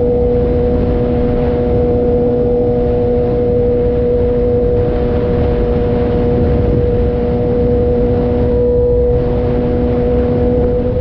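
2006 Suzuki GSX-R600 inline-four running through a Coffman's aftermarket exhaust, held at a steady engine speed with an unchanging pitch. There is a rushing noise underneath.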